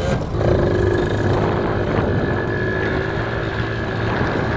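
A motor vehicle engine running at a steady speed while moving, a constant drone over a rush of road and wind noise.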